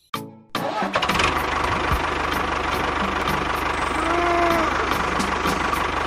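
A small engine starting about half a second in and then running steadily with an even, fast pulse.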